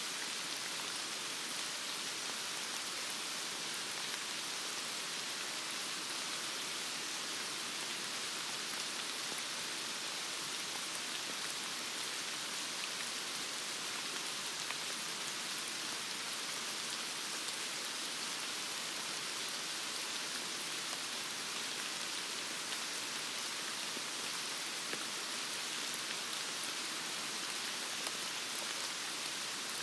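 Heavy rain falling steadily, a dense even hiss of drops with faint patters.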